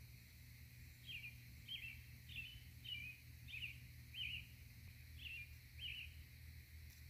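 A small bird calling over and over in short chirps, about eight in all, one every two-thirds of a second or so, starting about a second in. The calls are faint, over a steady low rumble.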